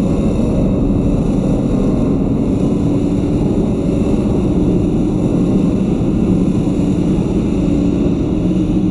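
Large metal spring picked up by a contact mic, giving a loud, dense, steady low rumble with humming tones running through it.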